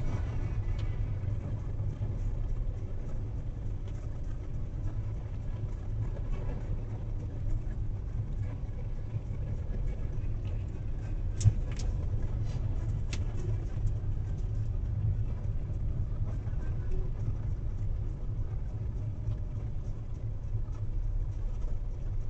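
Car driving, heard from inside through a dashcam: a steady low rumble of engine and tyres on the road, with a few sharp clicks or knocks about halfway through.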